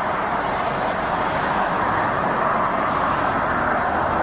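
Steady hum of road traffic and running vehicles, an even noise with no distinct events.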